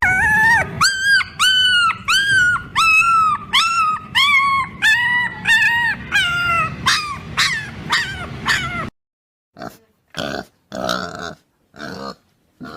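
A young animal, most like a puppy, whining in a run of high-pitched cries, about two a second, each rising then falling. The cries stop suddenly about nine seconds in and are followed by a few short, rougher bursts.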